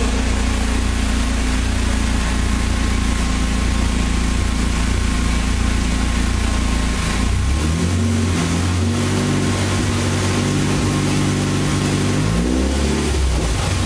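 Fiat 128 sedan's engine and exhaust idling steadily. About halfway through the revs rise and hold higher, wavering, and near the end there is a quick blip up and back down.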